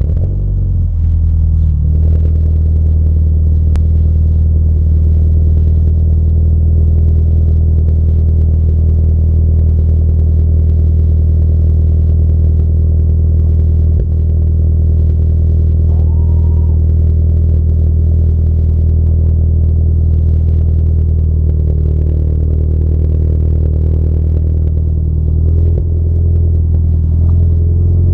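Volkswagen Tiguan engine idling through a custom exhaust, with the stock muffler and resonator deleted and only a small resonator on the mid pipe: a loud, steady, low exhaust note.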